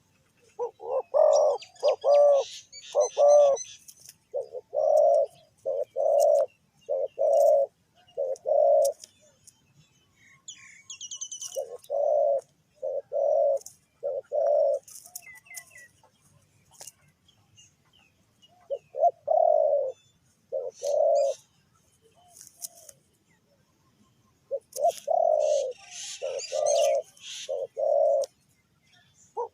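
Spotted dove cooing: groups of three to five low coo notes, the groups repeated every few seconds with pauses between them. Small birds chirp and trill faintly in the background.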